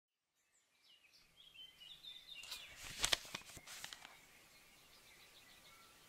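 Faint outdoor ambience with small birds chirping, plus a few short sharp ticks in the middle.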